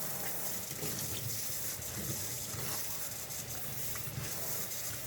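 Tap water running steadily as a plastic vacuum part is rinsed clean.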